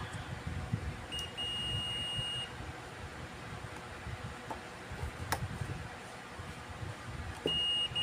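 Multimeter continuity beeper giving a steady high beep for over a second, then again near the end, as the test probes find continuity: the part under test reads intact. A single sharp click in the middle.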